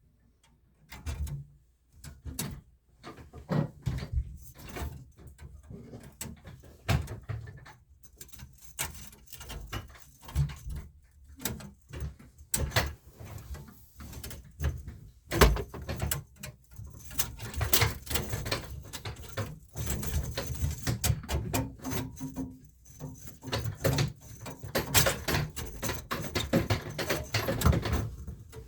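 Irregular knocks, clunks and rustling of tools and parts being handled while a hand drain snake is set up at a bathroom sink drain.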